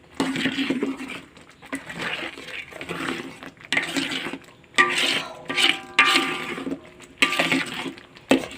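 Spatula stirring a thick curry-paste sauce in a large wok, scraping and knocking against the pan in repeated strokes about once a second, some with a brief metallic ring.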